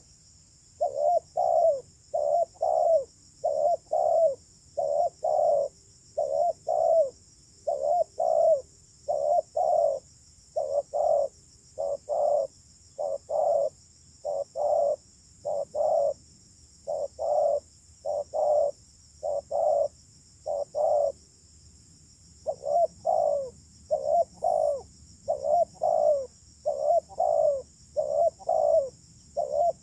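Spotted dove cooing over and over in short phrases of two or three falling notes, with a brief pause a little over two-thirds of the way through. A steady high-pitched hiss runs underneath.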